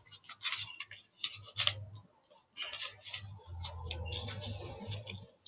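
Paper rustling and rubbing in short, irregular strokes as a folded origami paper boat is pressed and creased flat by hand.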